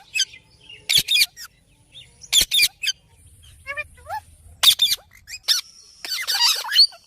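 Ringneck parrot giving short, shrill squawks, several of them in quick pairs, then a burst of warbling chatter near the end.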